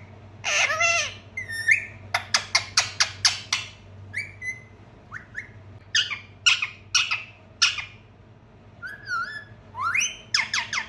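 Pet parrot calling: quick runs of short, sharp chirps and squawks with short whistled notes in between.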